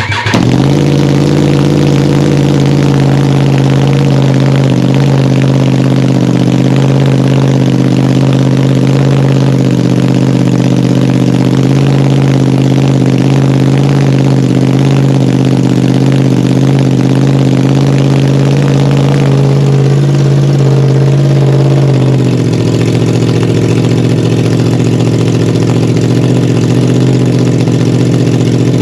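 2021 Yamaha R1's crossplane inline-four, running with the exhaust removed, fires up and idles loudly and steadily at a raised speed. About 22 seconds in, the idle drops to a lower, steady note.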